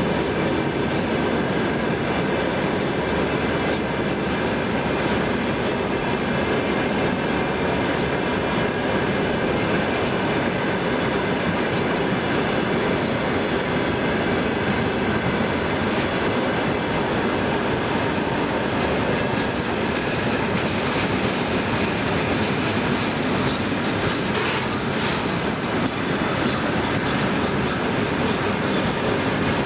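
Long freight train of railway tank cars rolling steadily past. The wheels clack over the rail joints over a continuous rumble, with a few faint steady high tones.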